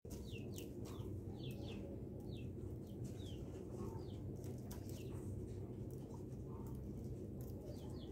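Small birds chirping: short, high, quickly falling chirps every half second to a second, over a steady low hum, with a few light clicks.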